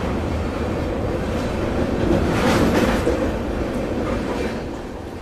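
Rajdhani Express train running: a steady rumble of wheels and coaches that swells louder about two to three seconds in and eases off near the end.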